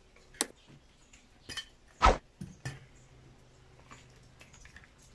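Handling noises from wires and tools being worked with: a few light clicks and clinks, with one louder knock about two seconds in.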